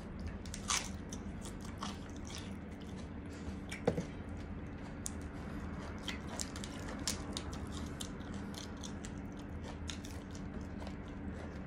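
Close-up chewing and wet mouth clicks, with crisp lettuce leaves crinkling as they are folded and dipped in a sauce bowl. A steady low hum runs underneath.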